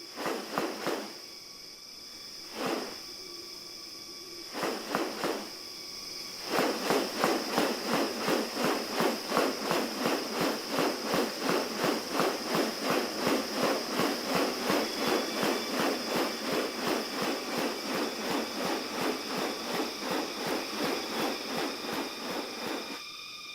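Rainforest insects making steady high-pitched tones, with a few separate strokes early and then, from about six seconds in, a fast, even pulsing of about two to three strokes a second.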